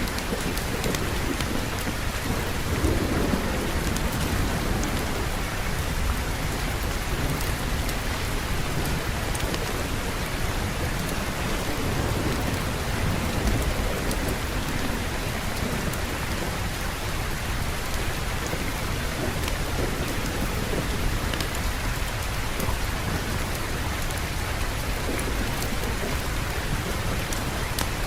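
Steady heavy rain with low rolling thunder rumbling underneath, swelling about three seconds in and again midway.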